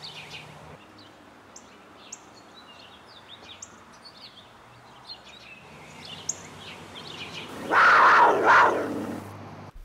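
Small songbirds chirping and twittering in short high calls, with a loud noisy burst lasting about a second and a half near the end.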